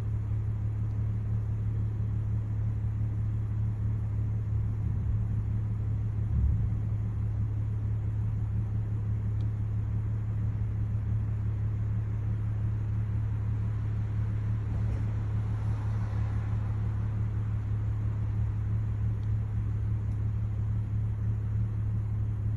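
A steady low hum, like an idling engine or running motor, with a brief low thump about six seconds in.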